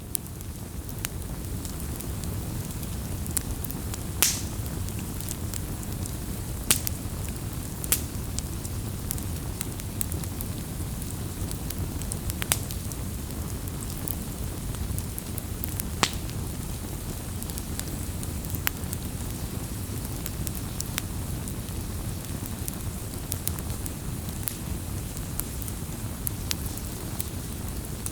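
Wood fire burning: a steady low rumble of flames, with sharp crackles and pops from the burning wood every few seconds.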